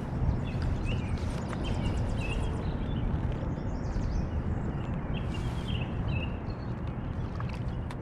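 Kayak-on-the-water ambience: a steady low rumble of outdoor noise on the camera microphone, with a few light clicks and knocks and faint short high chirps.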